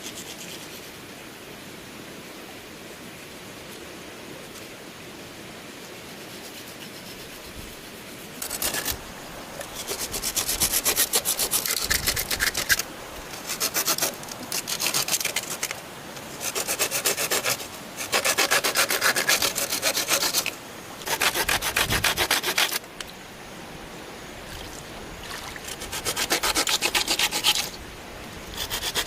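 A hand tool cutting into bamboo with a rasping sound, in runs of strokes a second or two long with short pauses between them. The strokes start about eight seconds in, after a quiet stretch of outdoor background.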